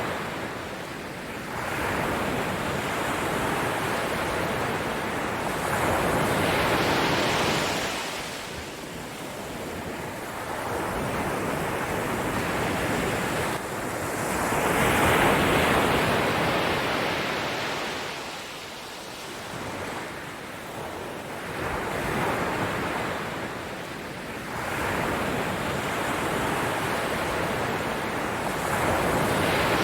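Ocean surf: a rushing wash of breaking waves that swells and fades in slow surges every several seconds.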